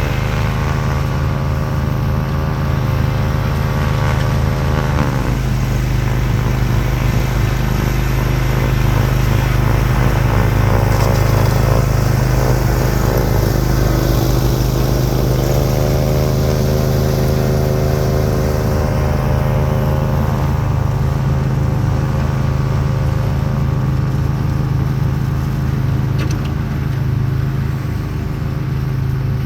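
Craftsman YT4000 lawn tractor engine running steadily with its front-mounted Bercomac 44-inch snowblower engaged, clearing heavy wet snow. A higher whine over the engine note drops in pitch about five seconds in and climbs back about sixteen seconds in.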